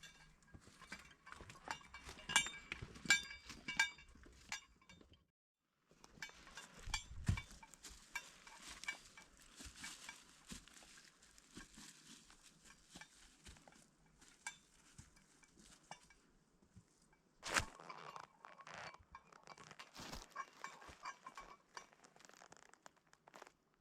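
Small objects being handled: light metallic clinks and clicks with rustling between them, a short break a little over five seconds in, then a dull knock.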